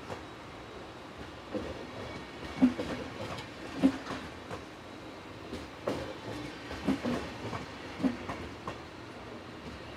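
SBB passenger coaches rolling slowly past, their wheels knocking over the rail joints about once a second over a steady rumble.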